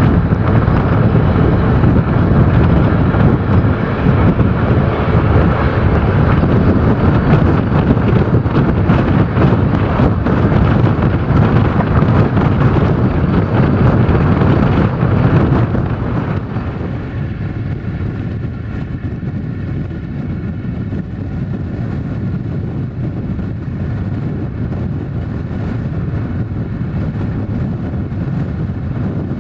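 Steady rumble of a passenger train running on the rails, heard from inside the coach. About halfway through it drops to a quieter, duller rumble.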